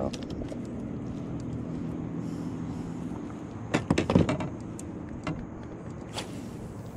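Steady low hum of a motor, with a quick cluster of clicks and knocks about four seconds in and a couple of single clicks after, as fishing line is let back out.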